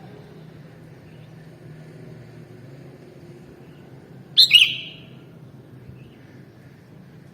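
A sooty-headed bulbul (kutilang) gives one short, sharp call about four seconds in, over a faint steady low hum.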